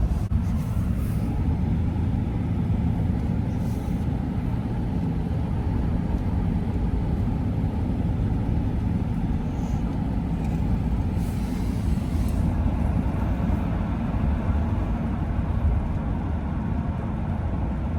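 Steady low rumble of road and engine noise inside a Ram 1500 Hemi pickup's cabin while it drives.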